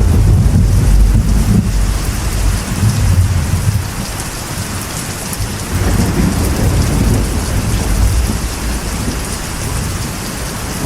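Steady rain falling on a metal roof, with thunder rumbling low underneath. The rumble eases about four seconds in and swells again a couple of seconds later.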